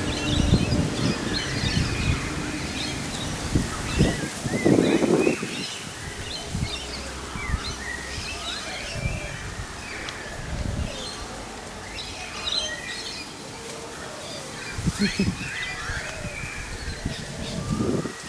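Several small birds chirping and singing at once, with a steady scatter of short calls and trills, over low wind gusts on the microphone.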